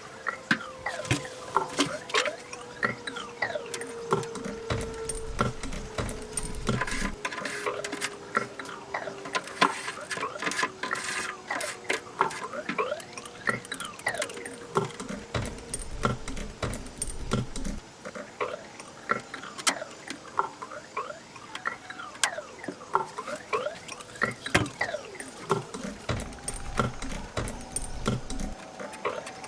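Fast-forwarded workshop sound of the sunroof parts being put back together: a rapid, chirpy run of clicks, taps and squeaks, pitched up by the speed-up.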